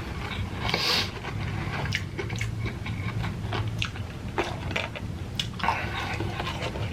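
A person chewing food close to the microphone, with many irregular wet mouth smacks and clicks.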